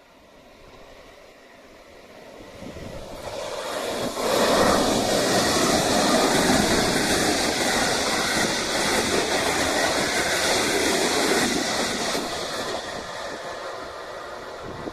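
A train passing: it builds up over the first few seconds, runs loud for about seven seconds, then fades away.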